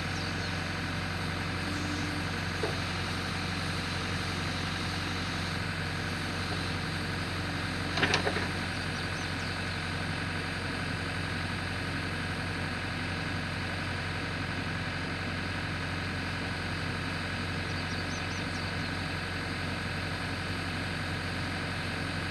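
Backhoe engine running steadily at idle. There is a faint knock a few seconds in and a brief, louder metallic clatter about eight seconds in.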